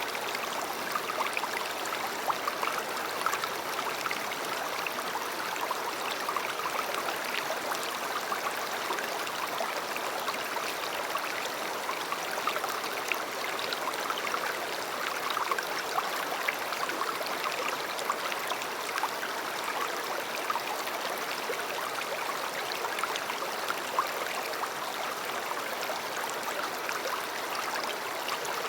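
River water flowing: a steady rushing babble with small irregular splashes.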